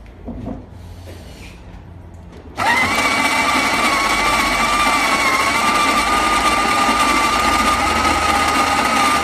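A coffee maker's electric motor switching on suddenly about two and a half seconds in, then running loudly and steadily with a high whine.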